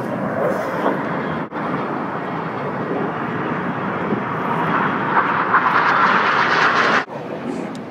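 Jet roar from Red Arrows BAE Hawk jets flying past after their break, a dense rushing noise that builds and brightens toward five to seven seconds in. It cuts off suddenly about seven seconds in.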